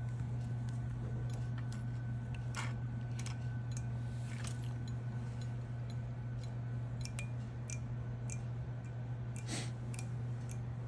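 Small clicks, ticks and snips of fly-tying tools being handled at the vise, scattered irregularly with two sharper clicks, over a steady low electrical hum.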